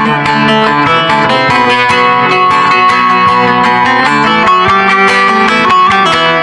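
Bağlama, the Turkish long-necked lute, played as an instrumental melody: a quick, unbroken stream of plucked notes ringing together.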